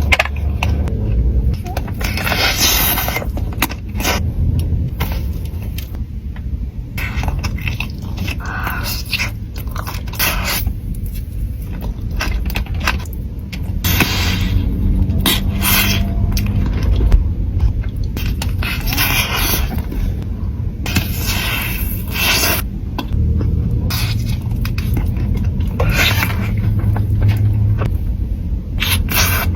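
Close-miked eating of pastries: irregular crunching, scraping and chewing noises, one burst after another.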